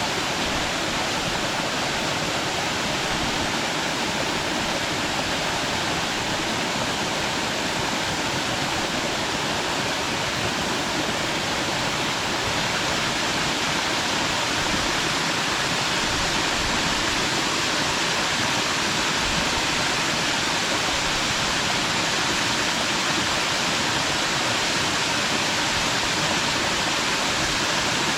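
Small mountain waterfall pouring steadily into its pool: an even, unbroken rushing of falling water.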